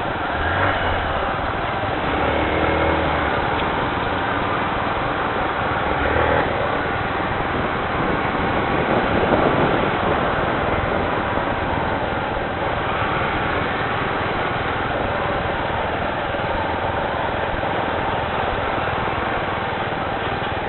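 Heavy rain falling, a loud steady hiss, with a few brief low rumbles.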